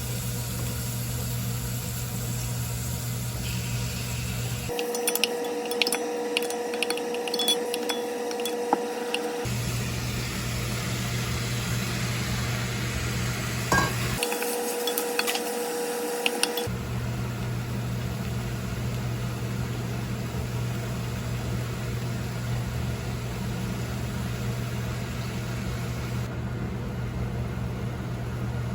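Kitchen cooking sounds: utensils clinking against pots and dishes over a steady low hum. The clinks bunch together from about five to nine seconds in and again around fourteen to sixteen seconds.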